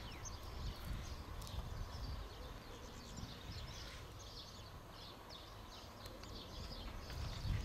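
Small birds chirping over and over, short high notes throughout, above a steady low rumble.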